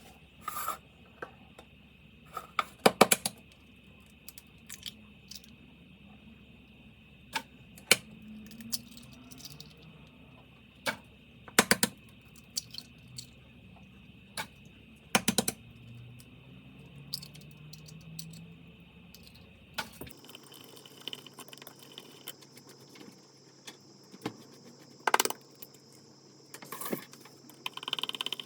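Kitchen clatter: a series of sharp, irregular clinks and knocks of dishes and utensils, with a change of background about twenty seconds in.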